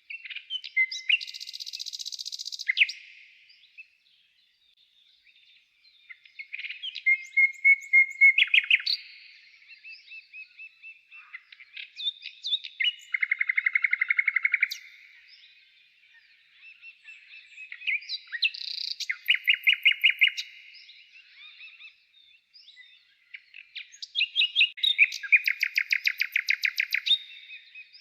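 Songbird singing: short phrases of chirps and fast trills, five of them with brief pauses between.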